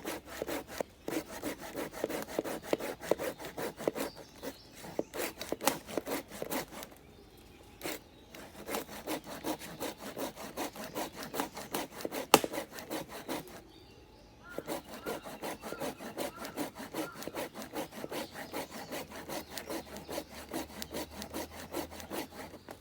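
Japanese hand saw (nokogiri) pulled through wood in quick, even strokes, about three a second, with two short pauses.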